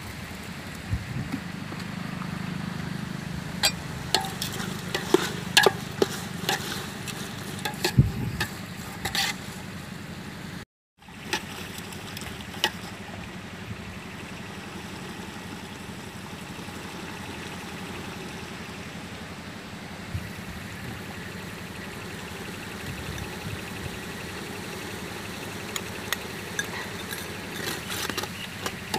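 Tomato and onion masala sizzling in an aluminium pot over a wood fire, with a metal ladle clinking and scraping against the pot as it is stirred, in the first ten seconds and again near the end. The sound drops out for a moment about eleven seconds in.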